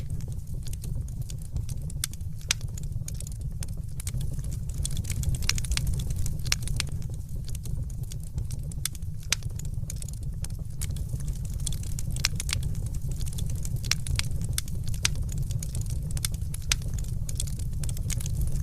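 Fire crackling in a fireplace: many irregular sharp pops and snaps over a steady low rumble.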